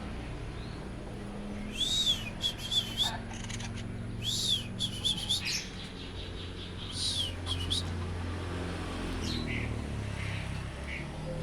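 A caged bird calling in three bouts, each an arched high chirp followed by quick chattering notes, with a few fainter chirps near the end, over a low background hum.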